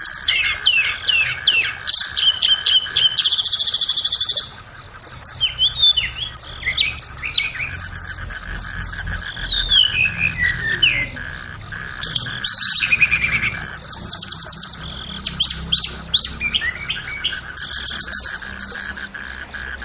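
Tledekan (Cyornis blue flycatcher) singing a long, varied song of high clear whistles, rapid trills, slurred falling notes and quick repeated notes, with brief pauses between phrases. A steady faint buzz runs underneath.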